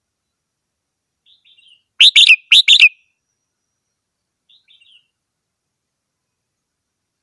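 Red-whiskered bulbul singing: a loud phrase of three quick notes about two seconds in, with a few faint notes before and after it.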